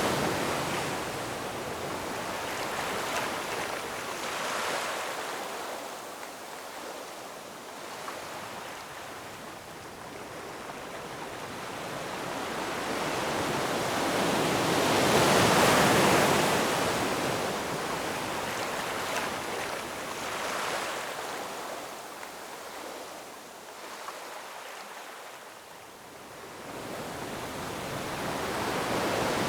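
Ocean waves washing onto a shore, a hiss of surf that rises and falls. It swells as a wave breaks about halfway through, eases off, and builds again near the end.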